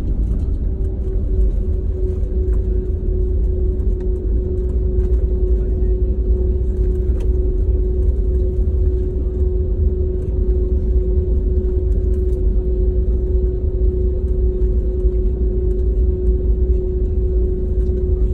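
Airliner cabin noise: a steady low rumble of engines and airflow, with one steady hum held throughout.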